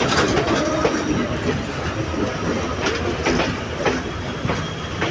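Sri Lanka Railways Class S10 diesel multiple unit rolling past close by, a continuous rumble of wheels on rail with several sharp clacks as the wheels cross rail joints.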